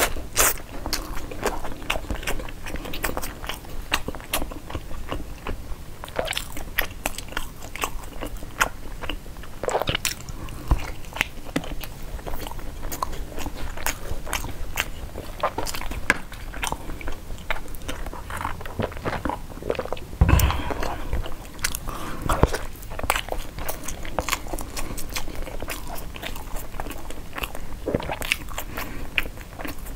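Close-miked biting and chewing of a sticky-rice zongzi, with small clicks and mouth sounds throughout and the leaf wrapper crinkling as it is peeled back. One louder thump comes about two-thirds of the way through.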